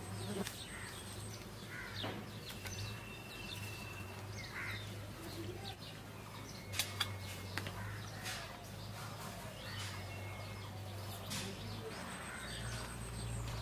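Faint bird chirps and whistles over a low steady hum, with a couple of soft clicks about seven seconds in.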